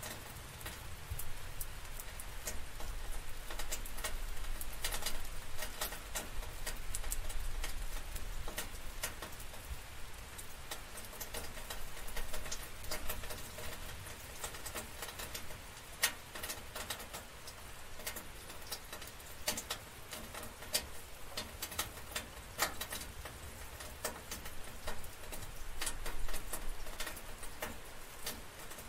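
Rain falling steadily, with many close, irregular drops pattering and ticking on a surface.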